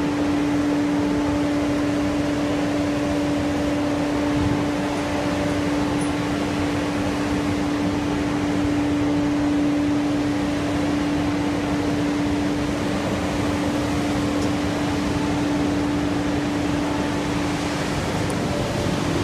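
Wide belt sanding machine running: a steady rush of machine noise with a constant, even hum.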